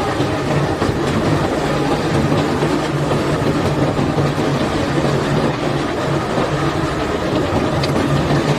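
Crushed white limestone pouring out of a barge, a steady rush of rock clattering, with a constant machine hum underneath.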